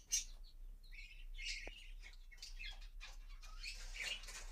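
Small birds chirping faintly in short, scattered high chirps.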